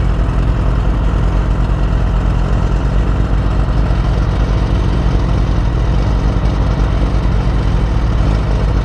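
Motorcycle engine idling steadily with a constant low note and no revving.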